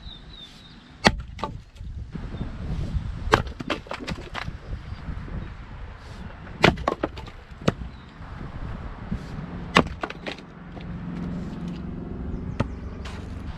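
Fiskars X25 splitting axe chopping ash rounds: a series of sharp axe strikes on wood, several seconds apart at first and then more often, with the wood splitting.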